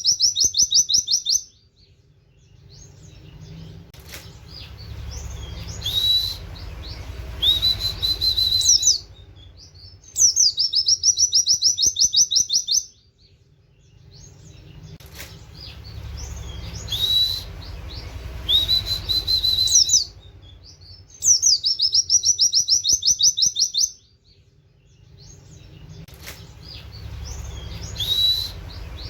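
White-eye (pleci) singing in a repeating cycle: a loud, very fast trill burst that sweeps down in pitch and lasts a couple of seconds (the 'nembak' burst), then a few short upslurred 'wit' whistles. The cycle comes round about every ten seconds, three times.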